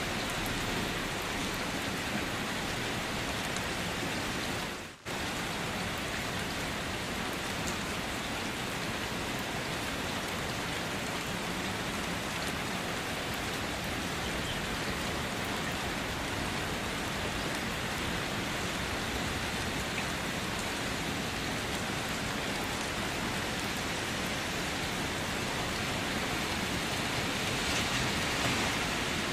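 Steady rain falling, a dense even hiss that holds throughout, with a short sudden dropout about five seconds in.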